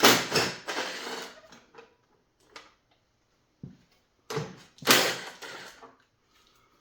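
Clattering handling noise from tools or parts being moved about: two loud noisy bursts about four seconds apart, each fading over about a second, with a few light knocks between.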